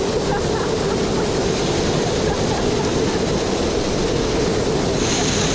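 Waterfall rushing: a loud, steady noise of falling water that does not let up.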